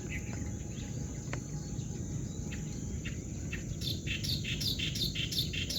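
Outdoor ambience: a bird calling in quick, short chirps, thickest in the second half, over a steady high-pitched insect drone.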